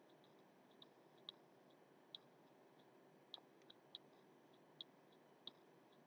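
Near silence with about eight faint, irregular clicks.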